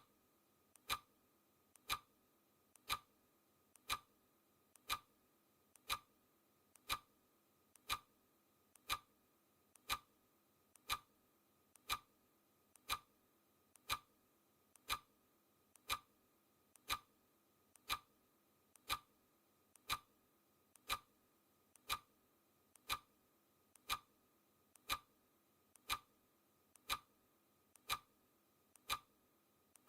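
Clock ticking sound effect, one sharp tick every second at a steady pace, each tick led by a softer click.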